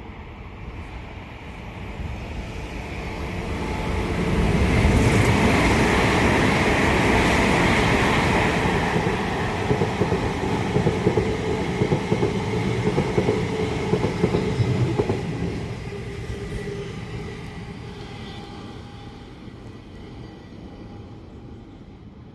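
A train passing on the main line: it comes in, runs loud for about ten seconds with a run of sharp wheel clicks near the middle, then fades away.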